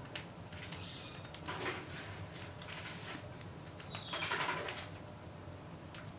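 Cockatiels pecking and cracking millet seeds, heard as scattered small clicks, with a soft bird call about four seconds in.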